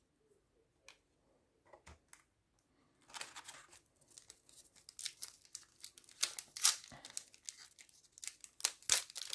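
A trading card pack wrapper being torn open and crinkled by hand, in dense irregular crackles that start about three seconds in, after a few faint clicks.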